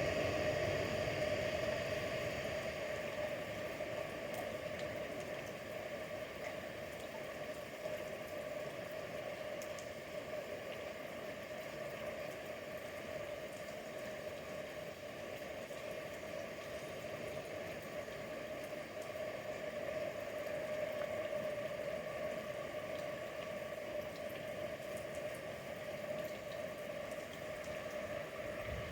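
A steady hum holding one constant mid-pitched tone, with fainter tones above it, over a soft even hiss. It eases off a little over the first few seconds, then stays level.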